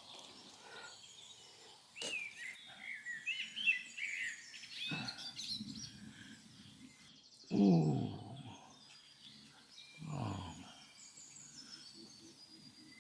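Birds chirping, followed by two low, drawn-out calls that fall in pitch, the first of them the loudest sound.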